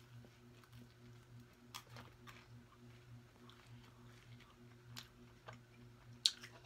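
Faint, close-miked chewing and small mouth clicks from a person eating. Near the end a sharp click as a metal fork taps the metal baking tray. A steady low electrical hum sits underneath.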